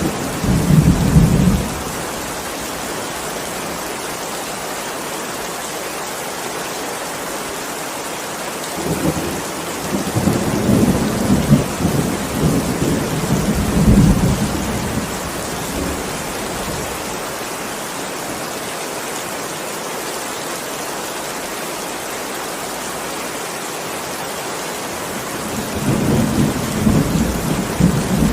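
Steady heavy rain with thunder rolling through it. There are low rumbles in the first second or so, a longer stretch of several seconds in the middle, and another near the end.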